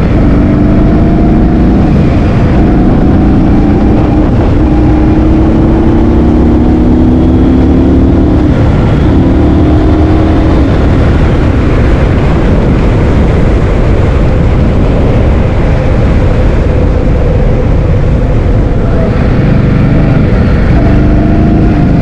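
Heavy wind buffeting the microphone on a moving vehicle, with an engine droning underneath. The engine note drifts slightly up in pitch, fades under the wind in the middle and comes back near the end.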